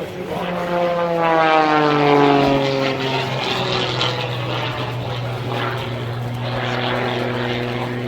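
Propeller aircraft flying past. Its engine note drops in pitch as it goes by, loudest about two seconds in, then settles into a steady drone.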